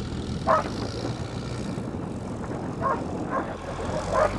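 Engine of a homemade farm vehicle running steadily while it is driven, with a dog barking a few times over it.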